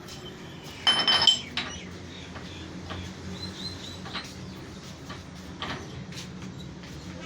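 Metal parts and tools clinking and knocking, with one loud ringing metal strike about a second in and scattered lighter clicks after, over a low steady hum.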